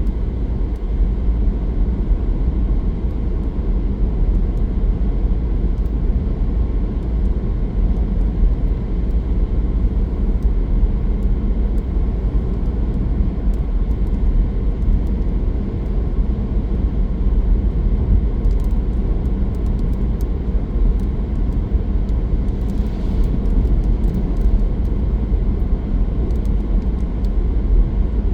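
Steady low rumble of a car driving along a road: engine and tyre noise that holds even throughout, with a few faint ticks heard high above it late on.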